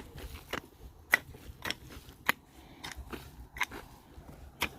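Irregular sharp knocks and crunching scrapes of soil being worked by hand tool as earth is moulded up around pumpkin plants, the loudest knock about a second in.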